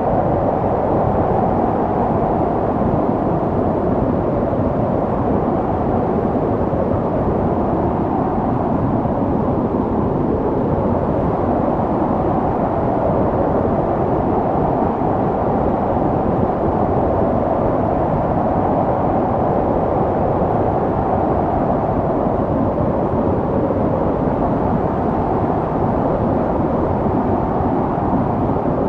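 Snowstorm wind blowing: a steady, dense rush of noise with no gusts or breaks, heavy in the low and middle range.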